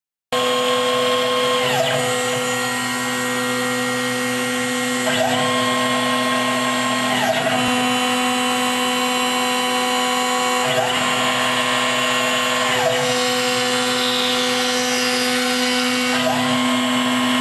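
Three-axis CNC router at work engraving thin plastic: the spindle runs with a steady whine, and the axis motors add tones that glide up and down every two to three seconds as the gantry speeds up and slows between moves.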